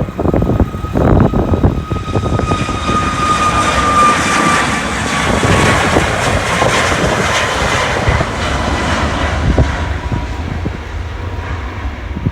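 Jet airliner taking off and passing at takeoff power: a loud rush of engine noise swells and then fades. An engine whine glides slightly downward as it goes by. Wind buffets the microphone at the start.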